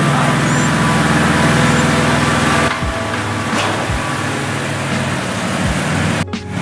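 BMW E90 sedan's engine running at low speed, a steady hum as the car creeps out of the garage; the sound changes abruptly about a third of the way in and drops out briefly near the end.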